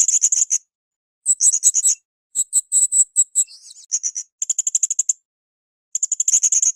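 Blue-crowned hanging parrot (srindit) calling in bursts of rapid, very high-pitched chattering notes, about a dozen notes a second. Each burst lasts under a second, with short pauses between, about five bursts in all.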